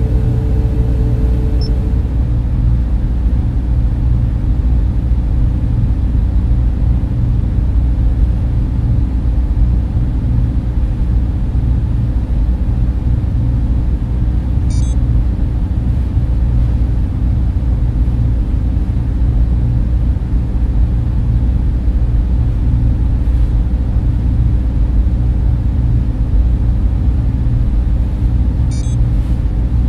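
Steady, loud, low-pitched hum of data center server fans and cooling equipment, unchanging throughout, with two faint brief ticks, one about halfway through and one near the end.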